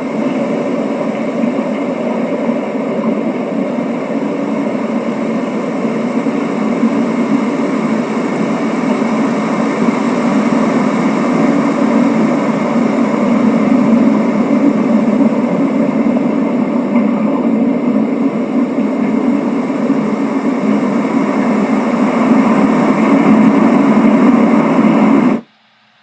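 Loud, steady mechanical noise like a heavy engine or train running, with several steady tones in it; it starts abruptly and cuts off suddenly about a second before the end.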